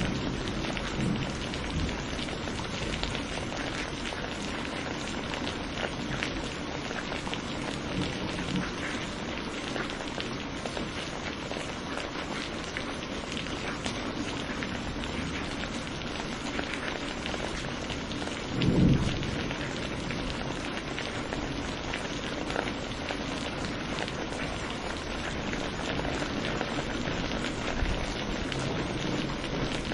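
Steady rain falling in a thunderstorm, with a short, loud rumble of thunder about two-thirds of the way through.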